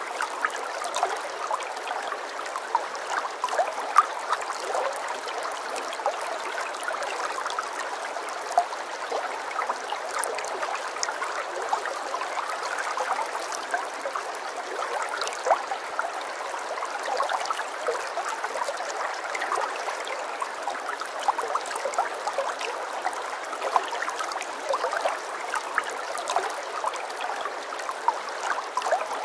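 Running water from a stream, a steady trickling and splashing with many small droplet sounds.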